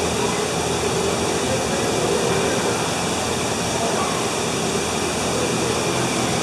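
Steady rushing background noise with a faint hum, holding an even level throughout.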